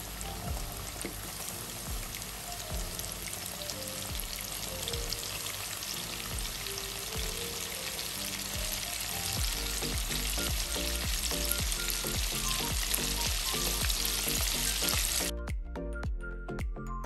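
Battered chicken tenders deep-frying in a pot of hot oil, a steady dense sizzle and bubbling, with background music underneath. The sizzle cuts off suddenly about two seconds before the end, leaving only the music.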